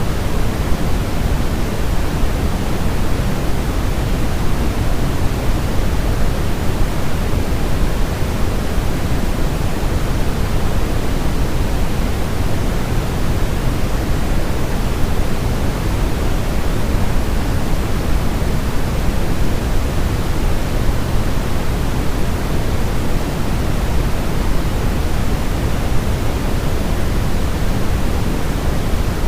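Steady, unchanging electronic white noise, heavier in the low end than in the high, used as a sleep aid to soothe a crying baby.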